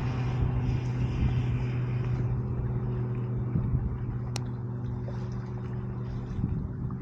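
A motor engine hums steadily at a low pitch, fading near the end. A single sharp pop, typical of the campfire, comes about four seconds in.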